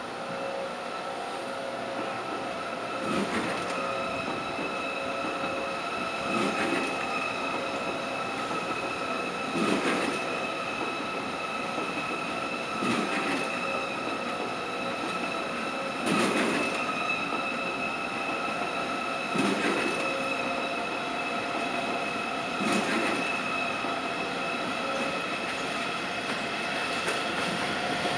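Passenger train coaches rolling slowly past with a steady high-pitched wheel squeal. A wheel clatter over a rail joint or switch repeats about every three seconds as each coach goes by.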